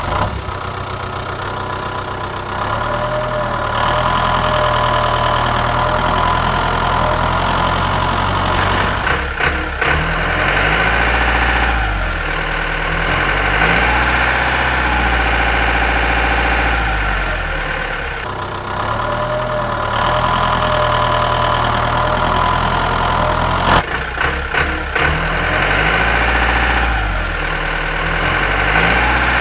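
Mini tractor engine running steadily, its pitch rising and falling several times as the engine speed changes.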